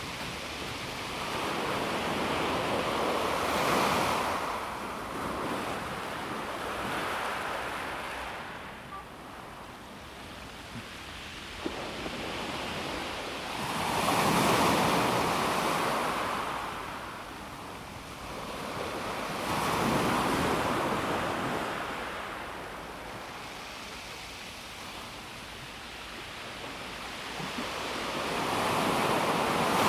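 Calm sea waves washing onto a pebble beach. Four waves swell and fade in turn, each a rush of water that rises over a couple of seconds and dies back into a steady wash.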